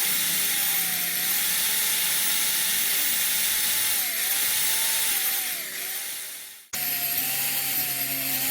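Electric drill spinning an engine valve against its seat to lap it with coarse grinding compound, a steady whine that dips in pitch now and then. It fades about six seconds in, stops briefly, and starts again.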